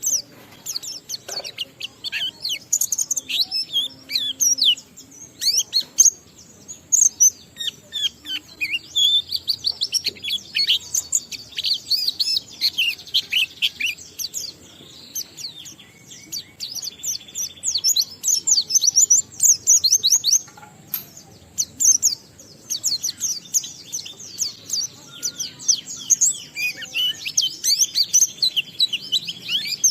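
Pleci (white-eye) in full song: a long, fast run of high chirps, trills and down-slurred notes with only brief pauses, the continuous 'ngalas' style of singing that keepers prize.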